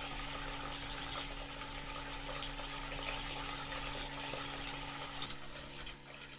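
Water running and splashing in a small homemade tree-style waterfall fountain, over a faint steady hum. The sound drops quieter near the end.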